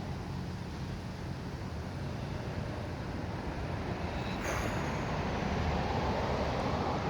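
Steady low rumble of road traffic from outside, growing somewhat louder over the last few seconds as a vehicle comes closer, with a brief sharp noise about halfway through.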